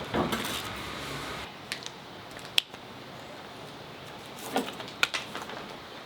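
Metal tools and small parts clinking as they are handled: a short rustle at the start, then scattered sharp clicks, the clearest about two and a half seconds in, and a small cluster near the end.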